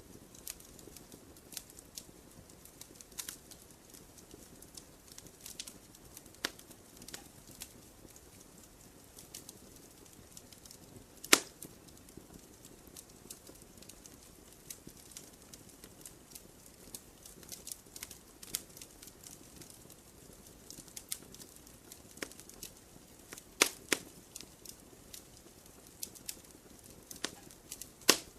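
Wood campfire crackling, with irregular sharp pops and snaps over a soft steady hiss. The loudest pops come about 11 seconds in, twice around 23 to 24 seconds, and once near the end.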